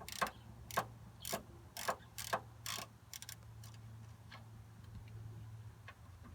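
Socket ratchet clicking as it is swung on a 14 mm tension rod bolt, about two sharp clicks a second for the first three seconds, then a quick cluster and a few faint ticks.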